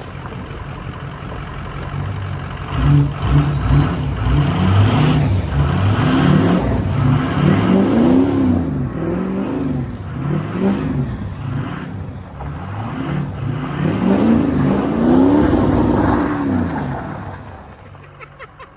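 A 6.0 Powerstroke V8 turbodiesel in a 1979 Ford F-250 revving up and down over and over while the truck slides on ice and snow. A high whistle rises and falls with the revs. The engine settles down near the end.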